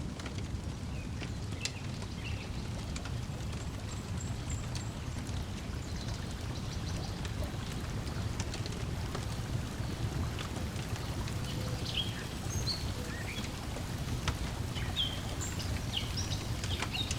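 Lakeside ambience: water lapping and splashing over a steady low rumble, with small birds chirping now and then and scattered crackles from a wood fire.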